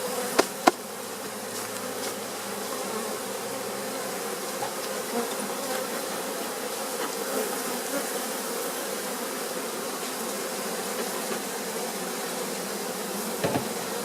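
Swarm of honey bees buzzing steadily around an opened hive, with a couple of sharp knocks about half a second in and another near the end.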